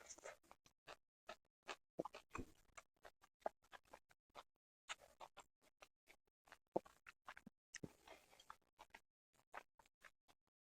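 Close-miked chewing of sushi: many soft, wet mouth clicks and smacks, thickening into denser bursts of chewing every few seconds.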